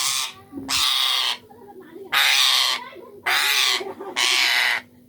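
Ringneck parrot giving a run of harsh, raspy screeches, about one a second, each lasting about half a second.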